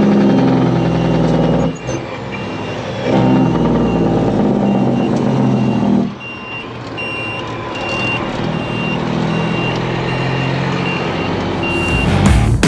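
Heavy truck's diesel engine running, with a reversing alarm beeping over it at an even pace. The engine note drops away briefly twice.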